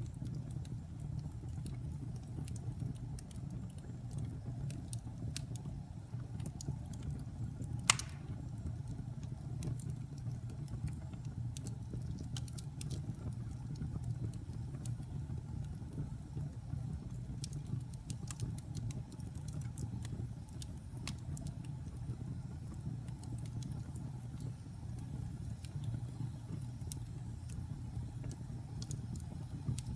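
Wood fire burning in a fireplace: a steady low rumble of the flames with frequent small crackles and snaps, and one loud pop about eight seconds in.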